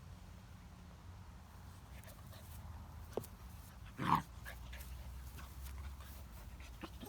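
Great Dane puppy giving one short, high yip about four seconds in, amid a few light knocks of play with a toy.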